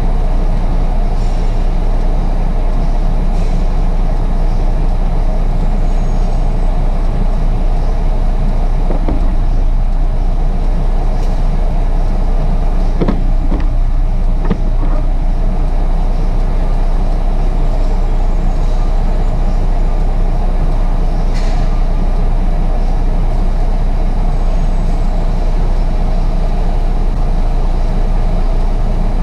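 Heavy truck engine running steadily with a constant low rumble.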